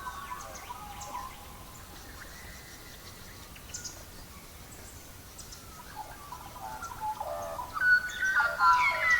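Songbirds chirping and singing over a faint steady hiss. A few scattered chirps and short high ticks come first, then from about two-thirds of the way in several birds sing at once in a busy run of chirps and trills.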